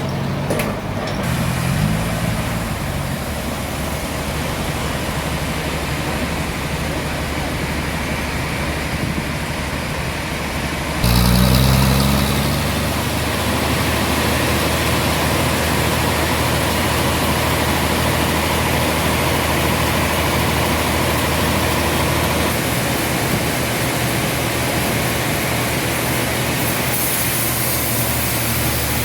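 A large engine running steadily. About eleven seconds in, the sound abruptly gets louder with a short rise in pitch, then settles into a steady run again.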